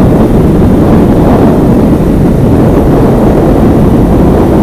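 Motorcycle being ridden: steady engine drone mixed with heavy wind rush buffeting the microphone.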